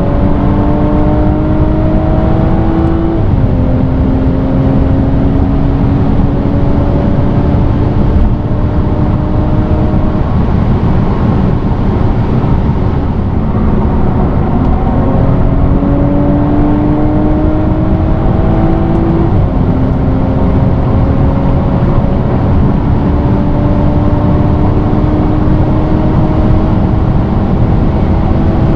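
2016 BMW 340i's turbocharged 3.0-litre straight-six accelerating at autobahn speed, heard from inside the car. The engine note climbs slowly and drops sharply at two upshifts, about three seconds in and again about nineteen seconds in, over steady road noise.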